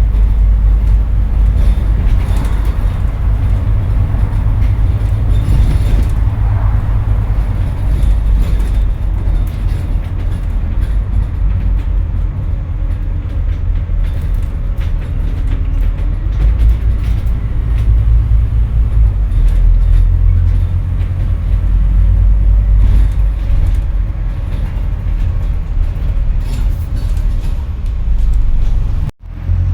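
Scania N230UD double-decker bus's five-cylinder diesel engine running hard under load, heard from inside the bus as a heavy, steady low rumble with body rattles. The sound drops out sharply for a moment near the end.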